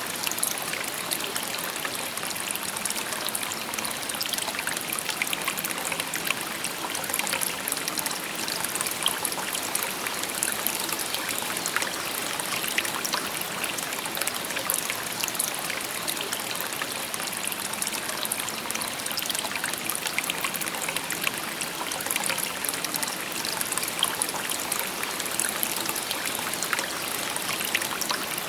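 A shallow river babbling over stones: a steady trickling, splashing murmur with many small droplet sounds and no change in its flow.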